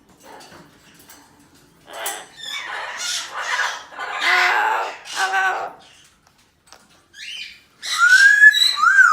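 Double yellow-headed Amazon parrot calling: a run of chattering calls for a few seconds, then after a pause a loud whistled call that rises and falls in pitch near the end.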